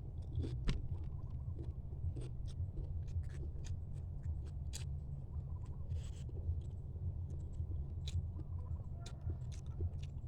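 Close-miked eating sounds: irregular small crunches, clicks and mouth noises of chewing, over a steady low rumble.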